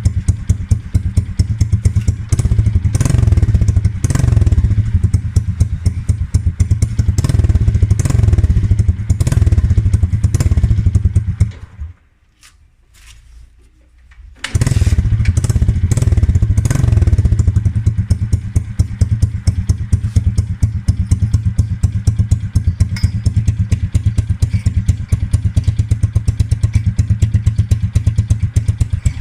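Modenas Kriss 110 motorcycle's single-cylinder engine running through an Apido Racing aftermarket exhaust, idling with a fast, even pulse and revved with repeated short throttle blips. About twelve seconds in the sound drops away for a couple of seconds, then the engine sound returns suddenly.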